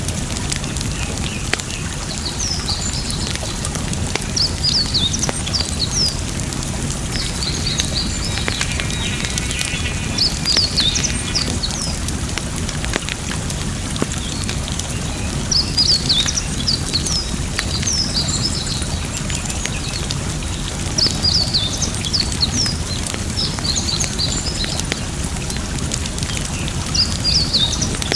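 Campfire crackling with scattered small pops over steadily running water, while small birds chirp in recurring bursts.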